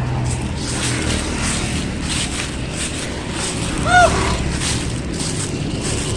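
Dry leaves crackling and crunching underfoot in a steady run of steps, over a low background rumble. About two-thirds of the way through, a brief arching tone sounds, the loudest moment.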